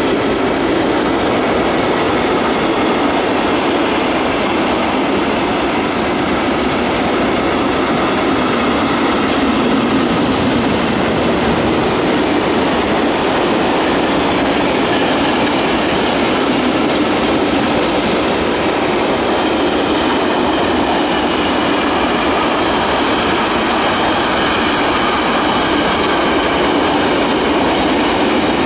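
Long mixed freight train of tank wagons and covered wagons rolling steadily past, its wheels clattering over the rails with a faint squeal.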